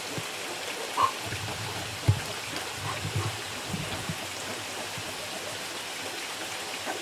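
Steady sound of running, trickling water, with two brief louder sounds standing out about one and two seconds in.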